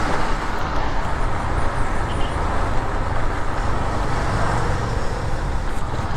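Steady motor-vehicle noise: engines and traffic running continuously with a low rumble, with no single event standing out.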